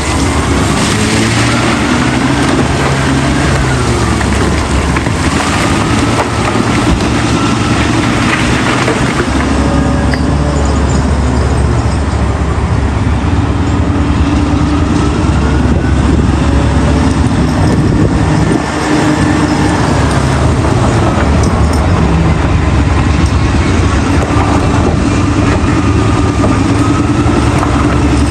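Big diesel engine of heavy quarry machinery running steadily, its pitch rising and falling as it works, with a fainter higher whine gliding up and down above it.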